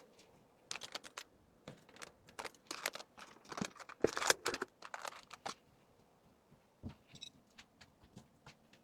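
Packaging and small items being handled: crinkling, rustling and light taps in irregular bursts, busiest in the first half, then only a few scattered taps.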